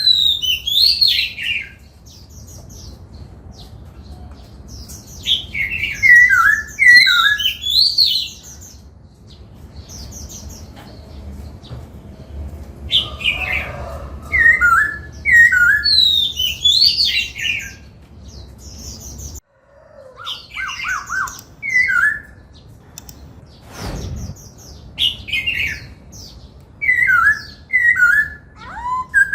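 Black-throated laughingthrush singing in bouts of loud whistled phrases, each a quick run of rising and falling notes, with pauses of a few seconds between bouts.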